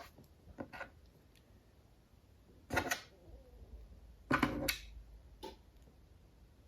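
Small plastic action-figure parts being handled: a few light clicks, then two short rustling scrapes about three and four and a half seconds in.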